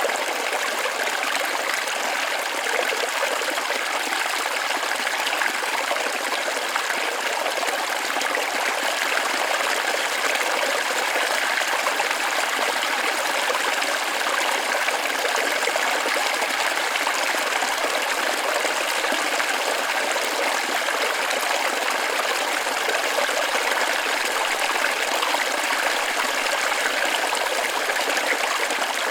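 Forest waterfall running steadily: an even rush and splash of water with no deep rumble.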